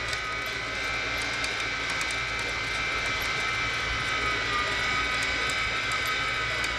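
Boat motor running steadily: a constant drone with a steady whine over a low rumble.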